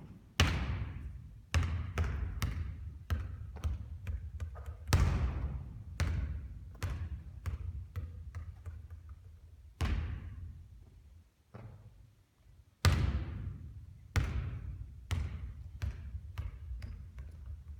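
A basketball bouncing and striking hard surfaces during three-point shooting practice: a string of irregular sharp thuds, each followed by a ringing echo, with a short lull about two-thirds of the way in.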